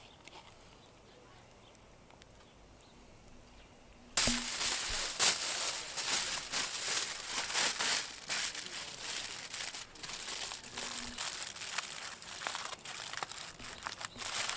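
Near-quiet, then about four seconds in a sudden, loud, dense crinkling and crackling starts and goes on, full of sharp clicks.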